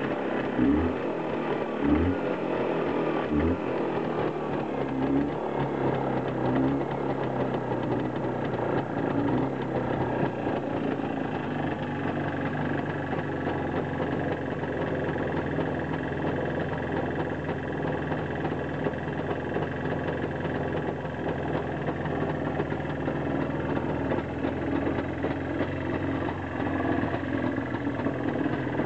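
Jawa 634 motorcycle's air-cooled two-stroke twin engine running shortly after a cold start. A few uneven low thumps in the first few seconds, then it settles into a steady idle.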